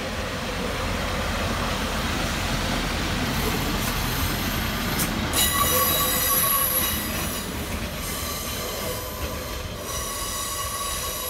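Northern Pacer diesel railbus pulling into the platform with a running rumble. A high-pitched, many-toned squeal from its wheels and brakes sets in about five seconds in, eases off, and comes back near the end.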